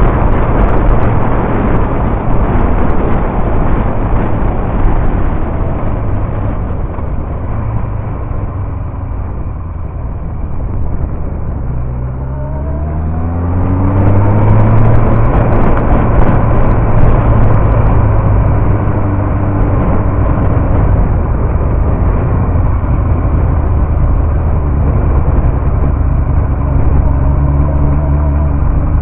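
Yamaha R1 sport motorcycle's inline-four engine running on the move, mixed with rushing wind noise. The noise eases off partway through, then the engine revs up in a rising pitch and settles into a steady drone.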